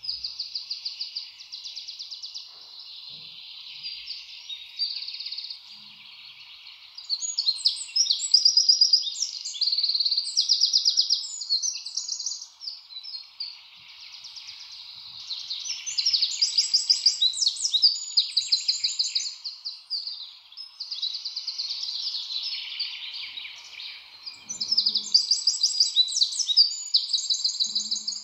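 Several birds chirping and singing at once, in overlapping runs of rapid high notes that come and go in bursts, with a faint steady hum underneath.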